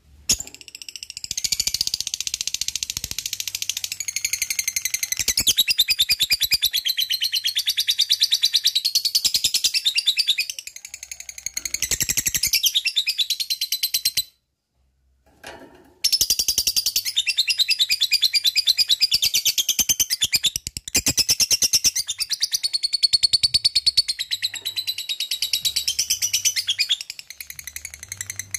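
Lovebird singing its long 'ngekek' song: a loud, very fast, unbroken high chattering trill, given in two long bouts with a short pause about halfway.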